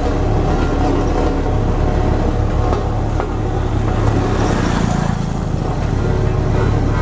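Road roller's diesel engine running steadily under load, with a fast low pulsing.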